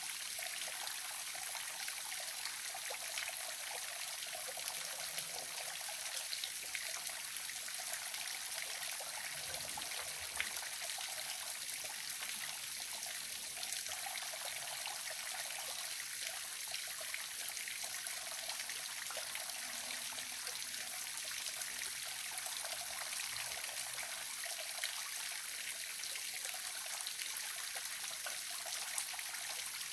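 Waterfall: water falling and splashing in a steady, unbroken rush, mostly high hiss with little low rumble.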